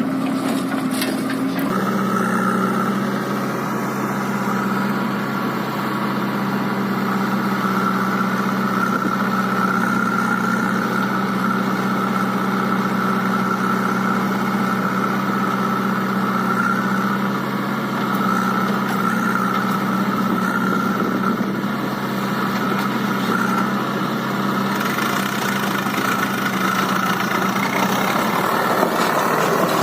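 Tractor diesel engine running at a steady speed, its pitch dropping slightly about two seconds in and then holding.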